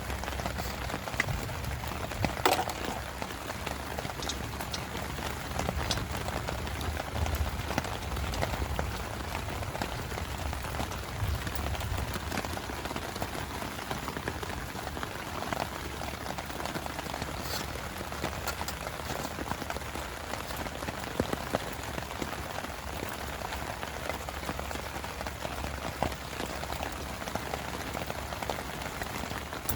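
Heavy rain falling steadily, with single heavier drops ticking now and then and one louder tick about two and a half seconds in. A low rumble sits underneath, stronger in the first half.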